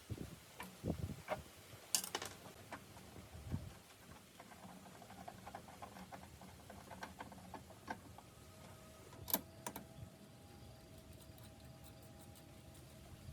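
Scattered clicks and knocks of tool parts being handled during the drill press restoration, with several heavier thumps in the first few seconds and a sharp click about nine seconds in.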